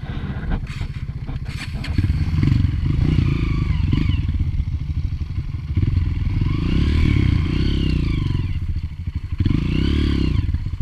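Dirt bike's single-cylinder four-stroke engine being ridden, revving up and down, its pitch rising and falling several times. There are a few sharp knocks near the start.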